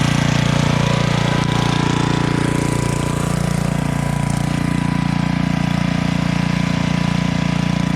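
Small gasoline engine of a Harbor Freight portable generator running at a steady speed, an unchanging engine drone.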